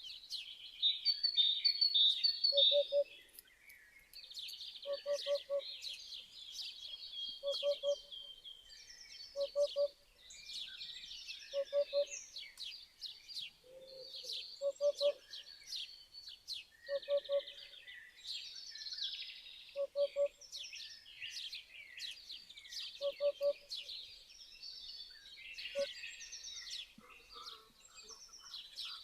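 Eurasian hoopoe calling its soft triple hoot, "oop-oop-oop", repeated about every two to three seconds, over a busy background chorus of other small birds chirping and singing.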